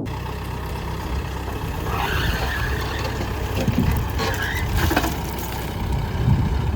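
An engine running steadily, with a few brief higher-pitched sounds over it partway through.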